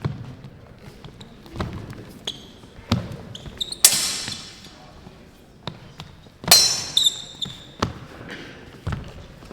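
Steel training messers clashing twice, loud sharp metallic strikes that ring on briefly, about four seconds in and again about six and a half seconds in, amid dull thumps of footwork on the floor.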